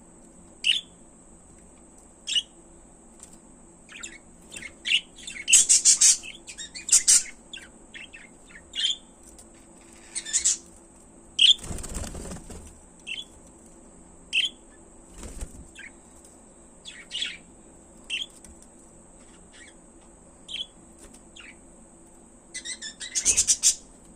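A pair of budgerigars giving short, scattered chirps, with quicker runs of chirping about six seconds in and again near the end. A brief rustle comes about halfway through, over a faint steady high whine.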